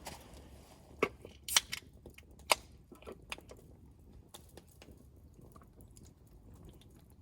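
Quiet eating sounds: faint chewing, with a few sharp clicks and taps about one, one and a half and two and a half seconds in.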